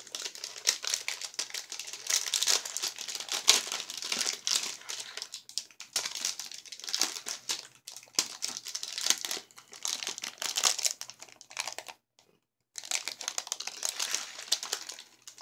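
Candy bar wrapper crinkling and rustling as it is opened and handled, in several bouts with short pauses and a longer break near the end.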